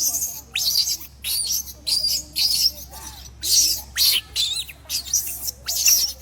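Baby macaque giving repeated shrill, high-pitched squeals, about two a second, several falling in pitch.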